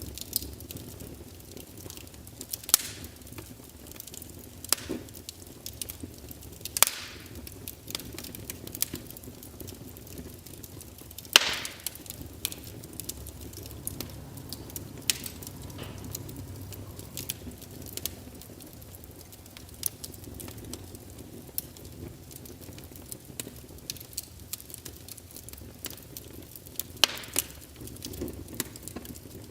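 Wood fire burning in a fireplace: a steady low rumble of flames under irregular crackles and sharp pops, the loudest pop about a third of the way in.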